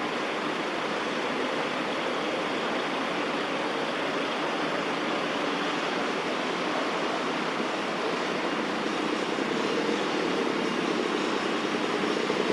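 Steady hum of distant city traffic, growing slightly louder with a low rumble in the last few seconds.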